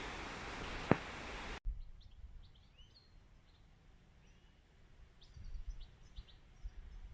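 A steady rushing noise with one sharp click cuts off abruptly about a second and a half in. It gives way to a quiet stretch where small birds give faint, short, high chirps, with low wind rumble on the microphone near the end.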